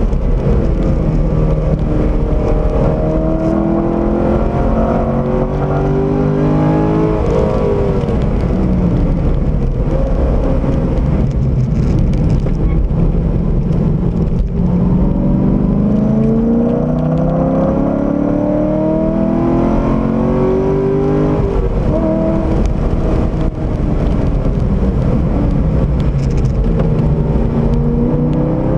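Corvette C6 Z06's 7.0-litre V8, heard from inside the cabin under hard acceleration. The engine note climbs steadily in pitch and drops back at gear changes about seven and twenty-one seconds in, with a short lift around fourteen seconds, over steady tyre and wind noise.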